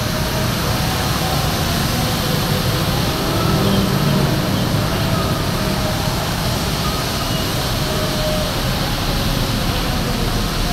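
Heavy rain pouring down over a busy wet road, with traffic running through the water. A low rumble of vehicles swells about halfway through.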